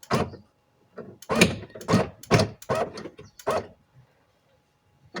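Scissor-type window regulator inside an Alfa Romeo 166 front door being lowered: a series of about six short mechanical clunks and rattles with brief pauses between them, most of them in the first four seconds.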